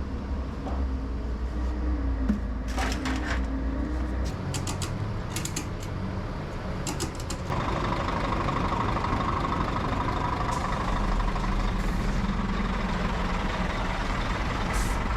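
Heavy vehicle engine running, with a gliding pitch and a run of sharp clanks and knocks in the first half. The sound changes abruptly about halfway to a louder, steady engine noise.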